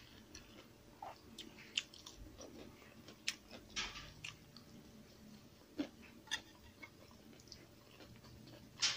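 Faint close-up chewing of a person eating by hand, with scattered soft mouth clicks and crunches and a sharper click near the end.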